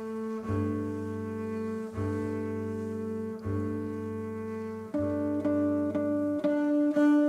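Bowed strings of a string-and-guitar quintet (violins, viola and double bass) playing slow, held chords. The double bass plays four long low notes, about one every one and a half seconds, and the upper strings move to higher held notes near the end.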